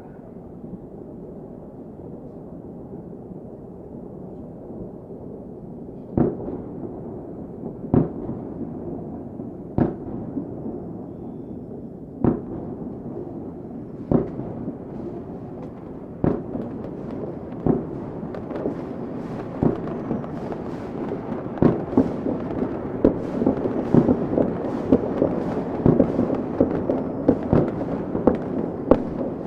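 Fireworks going off over a steady low rumble: a few seconds of rumble, then single sharp bangs about two seconds apart that come faster and closer together toward the end, with the background rising.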